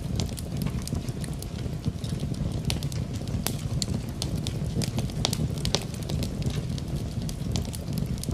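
Wood fire crackling in a fireplace: irregular sharp pops and snaps over a steady low rumble, mixed with the even hiss of falling rain.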